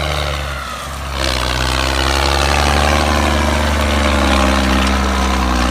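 Added engine sound effect for a toy tractor: a heavy engine running steadily, with a brief dip about a second in, after which its pitch slowly falls.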